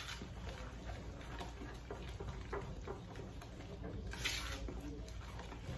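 Cake batter of mashed banana, oats and egg being stirred in a bowl: soft, irregular taps and scrapes of the utensil against the bowl, with a brief hiss about four seconds in.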